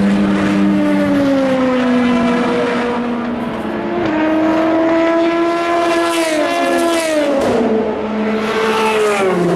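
Race cars passing at speed one after another, each engine note dropping in pitch as the car goes by.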